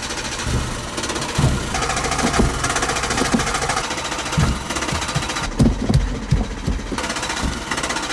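Peugeot 106 engine cranking on its starter, sputtering with irregular, uneven firings but not catching: a car that cranks but won't start.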